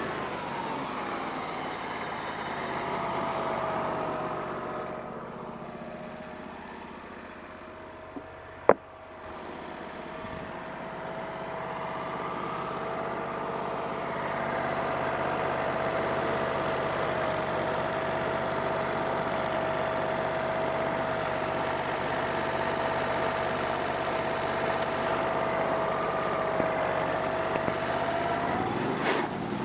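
Wood-Mizer bandsaw mill sawing a black cherry log. The machine's pitch drops as the blade takes the load entering the cut, holds steady at the lower pitch through the cut, and rises back near the end as the blade comes free. One sharp knock about nine seconds in.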